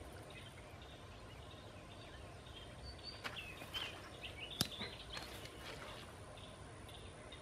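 Faint outdoor ambience: scattered short bird chirps in the middle few seconds over a low steady rumble, with a sharp click about four and a half seconds in.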